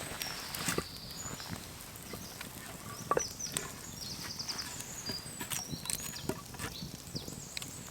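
Small woodland birds singing, with short high chirps, warbles and a rapid trill, over scattered sharp clicks and knocks.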